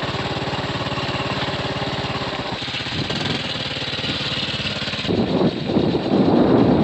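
A motorcycle engine running steadily with a fast, even beat. About five seconds in it gives way to a louder, rougher rush of noise.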